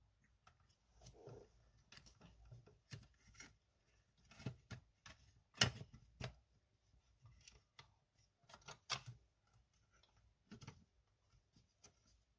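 Faint, irregular clicks and taps of parts and tools being handled during work on a cordless stick vacuum. The sharpest click comes a little over halfway through.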